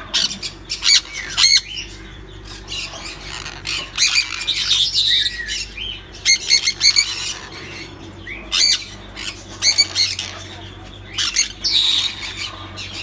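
Sun conures giving repeated loud, harsh squawks in scattered bursts, the agitated calls of a nesting female that is very angry at being disturbed.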